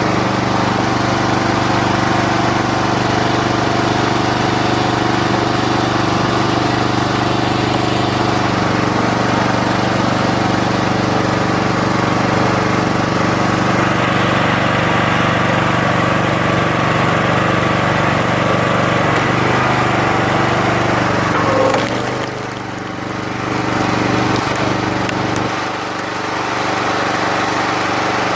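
Engine of a 40-ton hydraulic log splitter running steadily. The sound drops off briefly about three-quarters of the way through and lightens again near the end.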